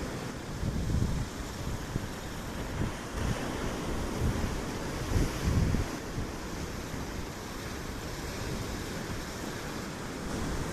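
Wind buffeting the microphone in uneven low gusts, loudest about a second in and again around five seconds, over a steady rush of sea surf.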